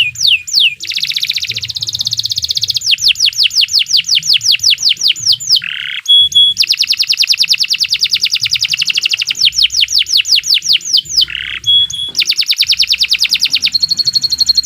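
Domestic canary singing a long, continuous song of rapid trills: fast runs of repeated down-slurred high notes alternating with buzzy rolls, with brief breaks about six and twelve seconds in.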